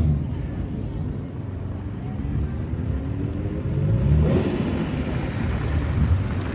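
Exhaust of a classic Nissan Skyline C10 "Hakosuka" straight-six with an aftermarket exhaust, running with a low rumble and revved so the pitch climbs, then blipped once more loudly about four seconds in.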